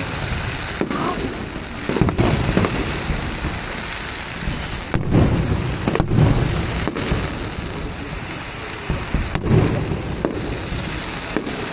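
Aerial fireworks going off: several deep booms and sharp cracks, a second or more apart, over continuous crackling.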